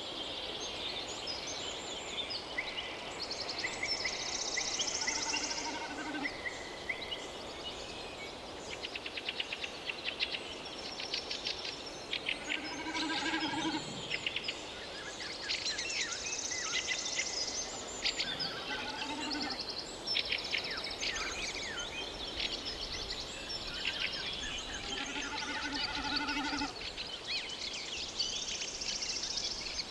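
Many birds chirping and calling together, with rapid trills and overlapping high chirps, and now and then a short, lower call.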